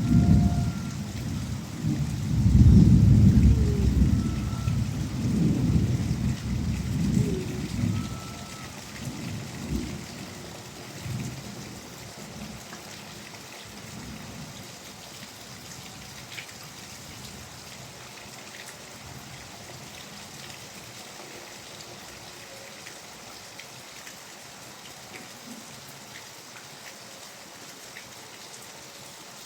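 Thunder rumbling over steady rainfall; the rumble is loudest a few seconds in and dies away by about ten seconds in, leaving only the even hiss of falling rain.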